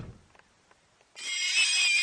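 A deep roar dies away at the very start, and after a second of quiet a high-pitched, wavering animal squeal begins and carries on.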